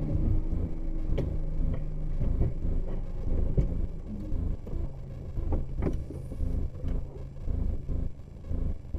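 Car driving, heard from inside: steady engine and road rumble with a few sharp knocks.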